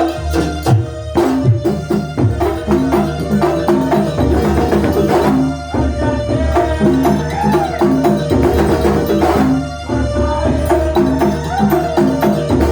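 Kuntulan, Banyuwangi traditional music played live: drums and percussion keeping a steady rhythm under a repeating melody of short pitched notes.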